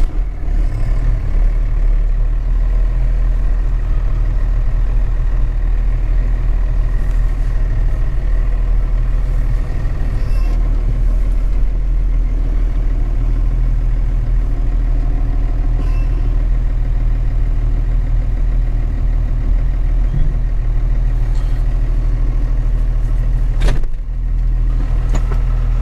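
Truck engine running steadily with a low, even rumble, as the truck is brought up to the snowplow to hook up. A single sharp knock sounds near the end.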